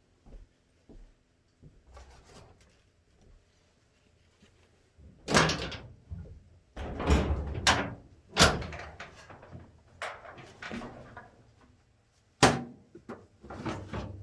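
Irregular knocks and clunks of something being handled, with four loud ones about five, seven, eight and twelve seconds in, each ringing briefly, and fainter clicks before them.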